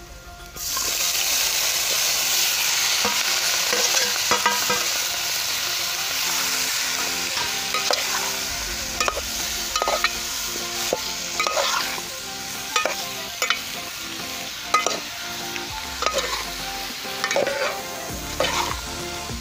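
Sliced bamboo shoots and prawns with spices tipped into hot oil in a steel pan, sizzling loudly the moment they land about half a second in. The sizzle slowly dies down while a steel spoon stirs the mixture, clinking and scraping against the pan.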